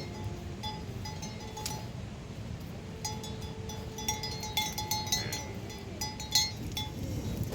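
Small metal bells clinking and ringing irregularly, each strike holding a short ringing tone, over a steady low background noise.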